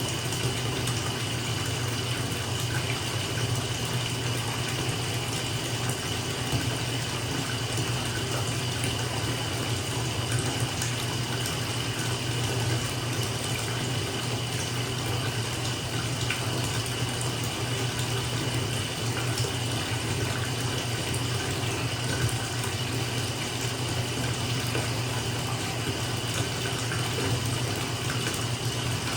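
Bathtub filling from its tap: water running steadily into the tub.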